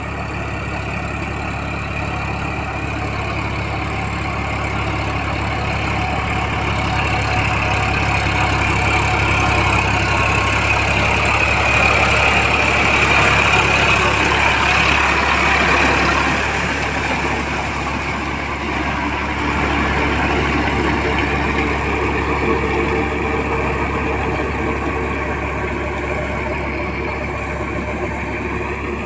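Massey Ferguson 9000 tractor's diesel engine running steadily under load while puddling mud. It grows louder toward the middle, then eases off about sixteen seconds in.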